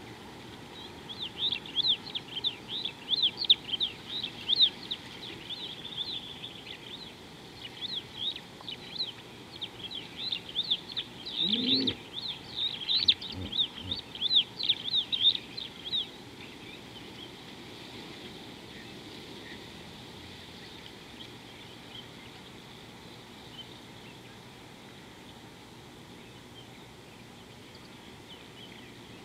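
A bird calling in a rapid series of short, high chirps, about three a second, which stops about halfway through.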